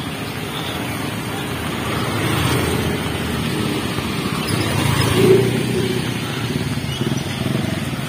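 A motor vehicle's engine running as it passes, building to its loudest about five seconds in and then easing off.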